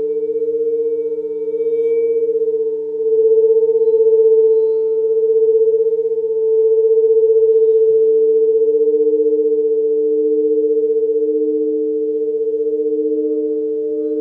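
Sound-healing drone of several layered, steady pure tones that waver slowly. About eight seconds in, a higher tone joins and the lower tone begins to swell and fade in a slow pulse.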